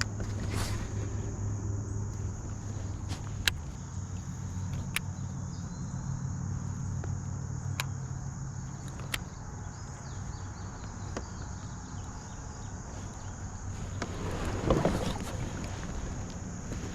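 Electric trolling motor on a kayak running with a steady low hum, with a few light clicks and a brief louder rush of noise near the end.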